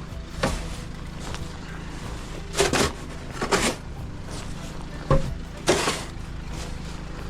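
Footsteps crunching through deep snow, an uneven string of short crunches about half a second to a second apart, over a steady low rumble.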